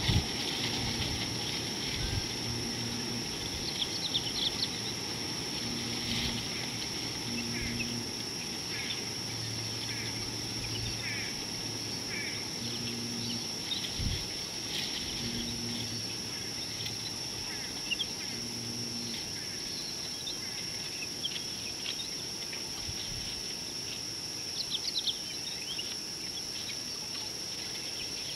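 Outdoor bush ambience: scattered short bird chirps over a steady high drone, with brief low hums coming and going and a few soft low thumps.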